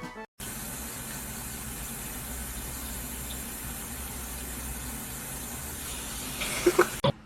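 A steady, even hiss that cuts off abruptly near the end.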